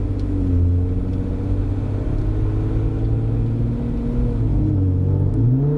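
Jeep Wrangler JKU engine running through an AFE Mach Force-XP cat-back exhaust while driving, a steady low, bassy drone that climbs in pitch near the end as it accelerates.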